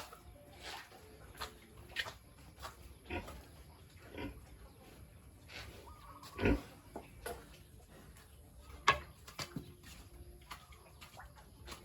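Pigs grunting, mixed with scattered short knocks; the loudest comes about six and a half seconds in and another near nine seconds.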